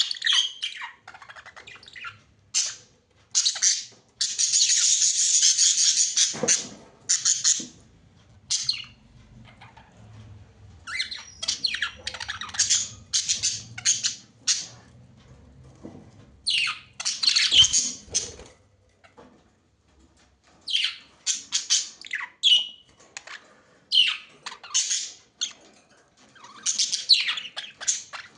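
Pet budgerigars chattering and chirping: many short, high-pitched calls and squawks coming in bursts with brief pauses between them, including a longer unbroken run of chatter about four seconds in.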